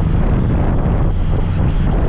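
Steady wind rush buffeting the microphone of a moving scooter rider, with road and engine noise beneath.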